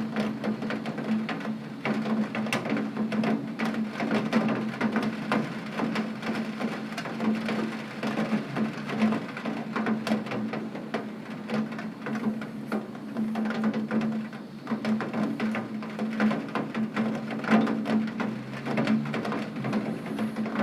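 Heavy rain hitting a window pane: a dense, irregular patter of drop taps, over a steady low hum.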